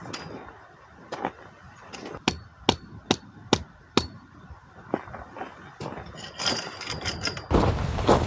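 A series of sharp knocks, about two a second, then a sudden rise of louder rustling noise near the end.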